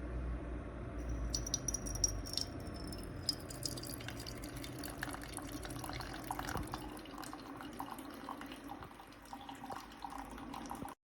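Ninja single-serve coffee maker brewing, with liquid dripping and trickling into the cup in many small irregular drips. A low machine hum fades over the first few seconds, a faint high whine glides slowly down, and the sound cuts off suddenly near the end.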